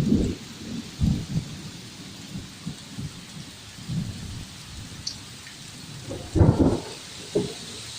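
Monsoon rain falling with a steady hiss, under irregular low rumbles that come and go. The loudest rumble is about six and a half seconds in.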